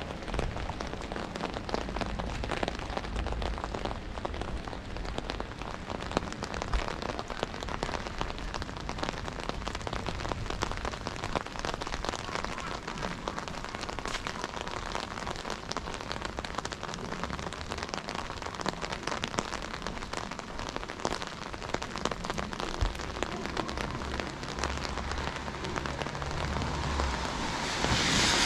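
Steady rain falling on hard surfaces, with many separate drops ticking all through. A louder hiss builds up near the end.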